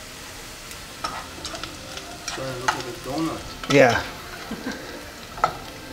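Shami patties of meat and chickpea frying in oil in a pan, a steady sizzle, with several sharp clicks of a utensil against the pan as the patties are handled.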